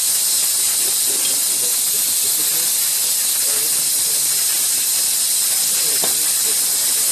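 A steady, high-pitched hiss at an unchanging level, with faint voices underneath.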